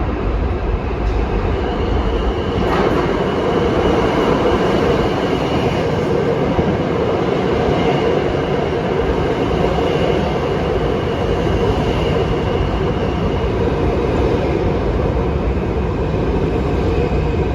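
New York City subway train running on the rails with a steady rumble, faint wheel squeal coming and going.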